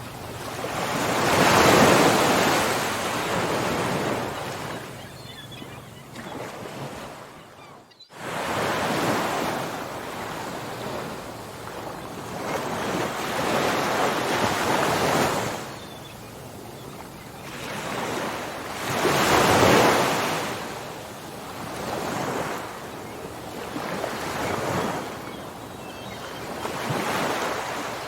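Ocean surf: waves breaking and washing up the shore, the sound swelling and falling back every few seconds. The sound drops out for an instant about eight seconds in.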